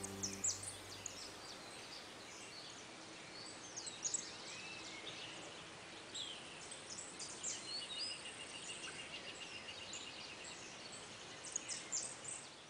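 Birdsong: several small birds chirping and calling, with a rapid trill of repeated notes lasting a couple of seconds past the middle.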